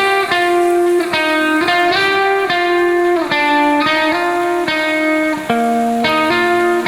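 Guitar music: a melody of plucked notes over chords, changing every half second or so.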